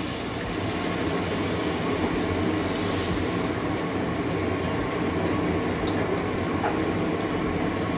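Wet spice paste sizzling and bubbling in a hot steel wok just after water is added, stirred with a steel spatula, with a louder burst of hissing about three seconds in. The masala is being fried down until the oil separates from it.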